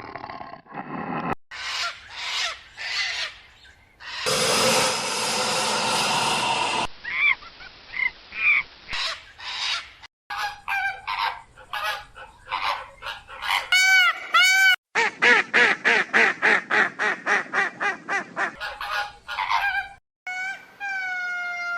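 Farm fowl calling in a series of short clips that cut abruptly from one to the next, including a run of quick repeated calls at about four or five a second and some arched, falling calls near the end.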